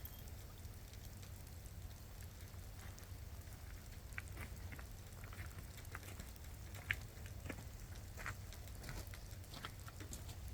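Raindrops pattering and dripping in scattered, irregular taps over a low steady rumble, with one sharper tap about seven seconds in.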